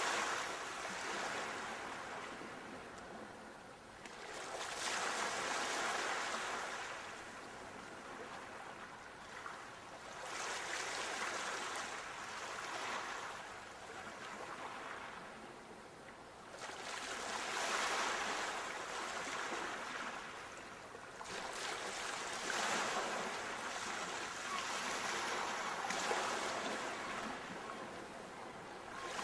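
Sea waves breaking and washing on a shore, a surge of surf that swells and recedes about five times, every five or six seconds.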